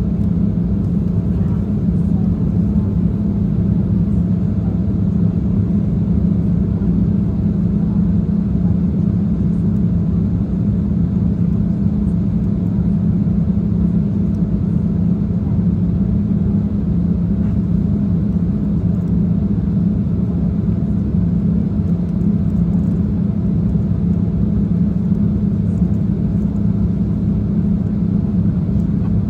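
Steady jet airliner cabin noise during the climb: engine drone and rushing airflow heard from inside the cabin, with a strong, even low hum.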